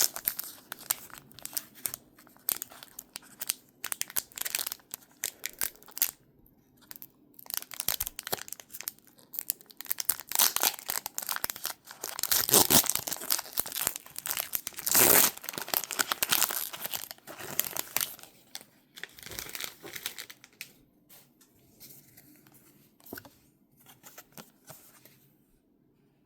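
Foil Pokémon card booster pack wrapper crinkling and being torn open, with the loudest rips about halfway through. The crackling thins out near the end.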